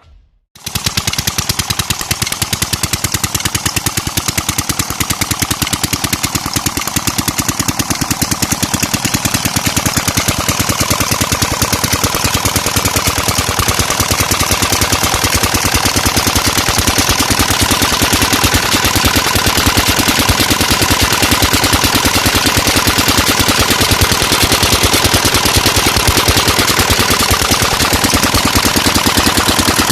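16 hp tube well diesel engine running steadily under load, its exhaust giving a rapid, even train of sharp beats. It begins abruptly about half a second in.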